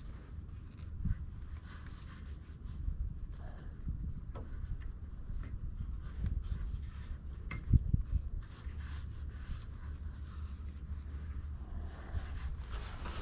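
Hands working a cold, stiff rubber headlight bushing over the bulb's plug prongs: scattered rubbing and light clicks, with a sharper knock a little past halfway, over a low steady rumble.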